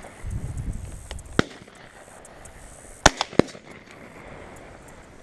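Shotgun shots: one about a second and a half in, then two sharper ones in quick succession about three seconds in.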